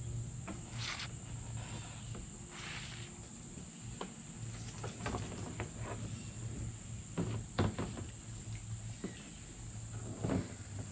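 Steady high-pitched chorus of crickets, with scattered soft knocks.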